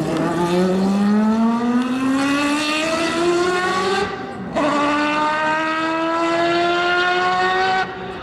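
Motocross bike engine accelerating hard, its pitch climbing for about four seconds, briefly cut about four seconds in, then climbing again more slowly until the throttle closes sharply near the end.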